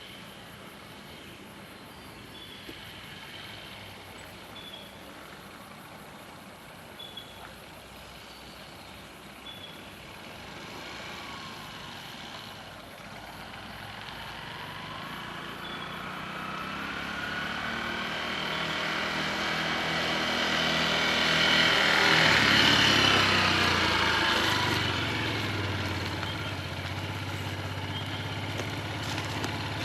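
A motorcycle approaching, its engine growing steadily louder over several seconds to a peak about two-thirds of the way through, then settling into a steady idle.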